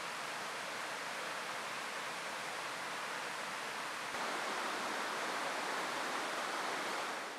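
Steady rush of a clear mountain river flowing, a little louder about halfway through and fading out at the end.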